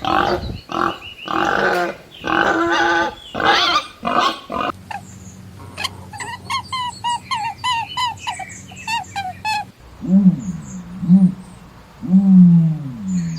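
Three different animal calls one after another: harsh grunting bursts, then a run of short, quick, repeated high calls, then a few low calls that fall in pitch near the end.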